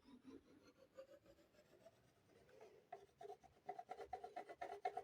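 Pencil scribbling on paper in quick back-and-forth colouring strokes, faint at first and denser and louder in the second half, with a slight squeak to the strokes.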